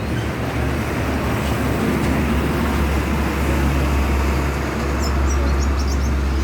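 A loud, steady rumble of traffic-like background noise, with a few brief high chirps from a red siskin starting about five seconds in.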